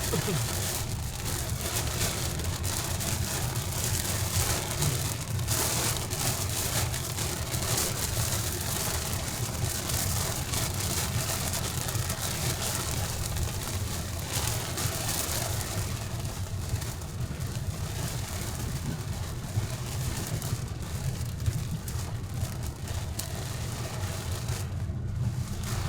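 Steady rain falling, a dense even patter, over a continuous low rumble.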